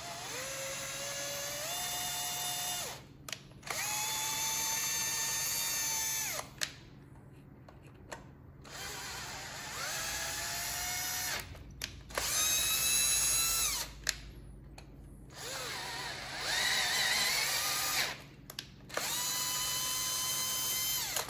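Power drill spinning a tap to chase the threaded bolt holes in the engine block, in about six short runs: each spins up, holds a steady whine for one to three seconds, and stops.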